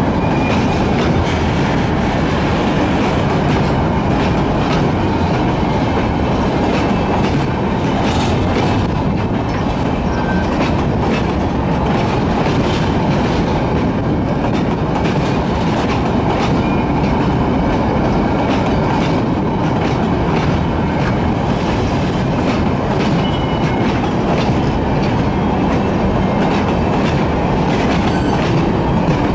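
Freight train of mineral hopper wagons rolling past close by: a steady rumble of steel wheels on rail, with clatter as the wheels cross rail joints.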